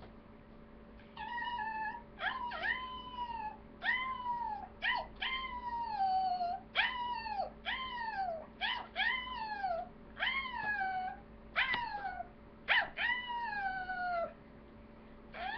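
A young dog giving a run of about a dozen high whining, howl-like cries, each sliding down in pitch, in quick succession from about a second in until near the end.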